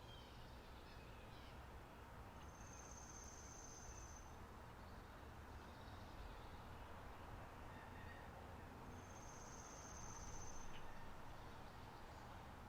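Faint spring meadow ambience: an insect trills twice, each a high, steady buzz of about two seconds, with a few faint bird chirps in between.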